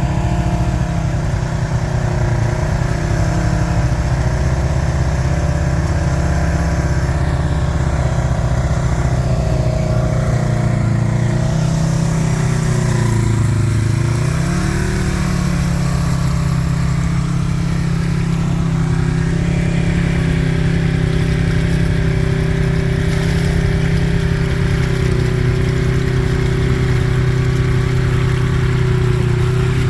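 Side-by-side UTV engine running steadily under throttle. Its pitch drops briefly about halfway through, then picks back up.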